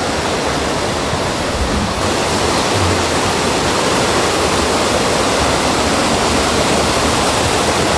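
Steady, loud rush of fast-flowing water, like a mountain torrent or waterfall.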